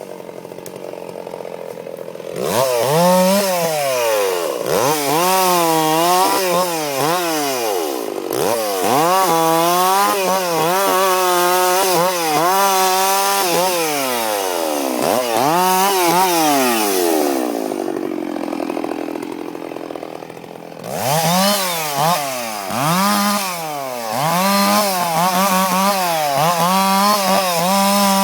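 Stihl 066 two-stroke chainsaw cutting eucalyptus wood, its engine speed rising and falling over and over as the chain works in the cut. It starts low, revs up about two seconds in, drops back to a lower steady note about two-thirds of the way through, then revs hard again.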